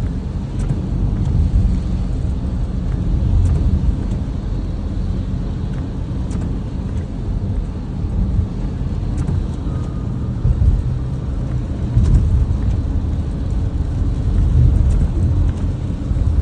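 Car driving: a steady low rumble of engine and tyres, with faint ticks about every three seconds.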